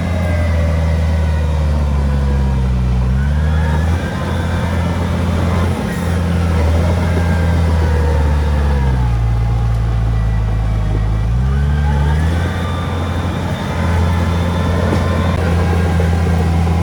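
Komatsu D31P bulldozer's diesel engine running hard, its pitch sagging twice as it takes load while pushing stone, about two seconds in and again from about nine to twelve seconds, then picking back up.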